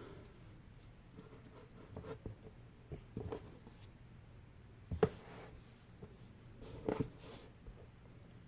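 Small fidget toys being rummaged through and handled, with light rustling and scattered soft knocks and clicks, the loudest about five and seven seconds in.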